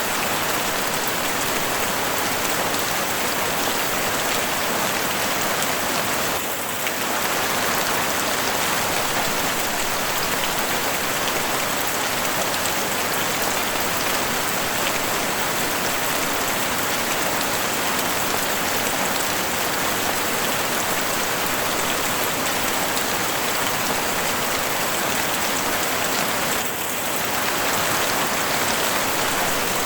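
Heavy rain falling steadily on the roof of a house: a dense hiss of many fine drop impacts. It dips briefly twice, about six and a half seconds in and again near the end.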